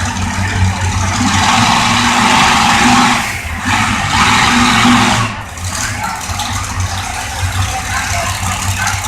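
A pulling-tractor engine running with a steady low drone, swelling louder between about one and five seconds in, with two brief dips.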